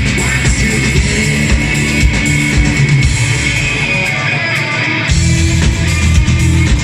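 Rock band playing live, guitars and drum kit with no singing. The low end thins out about four seconds in, then the full band comes back in hard at about five seconds.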